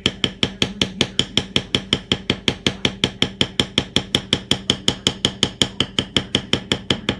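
Fast, steady tapping of a mallet on a leather stamping tool, about six strikes a second, each with a short metallic ring.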